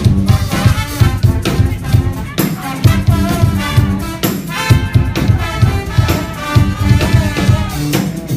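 Live brass band playing: trumpets and trombones over a steady, regular low beat of drums and bass.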